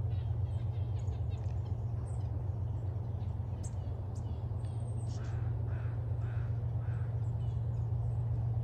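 A crow caws four times in quick, even succession about five seconds in, over a steady low hum, with faint high chips from small birds throughout.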